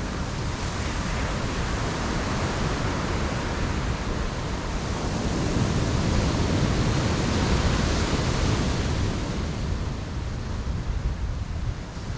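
Ocean surf breaking and washing on a beach: a steady rushing that swells to a peak midway and eases off near the end.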